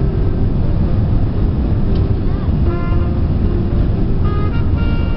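Steady low rumble from a Singapore Airlines Airbus A380, with brief pitched sounds over it about halfway through and again near the end.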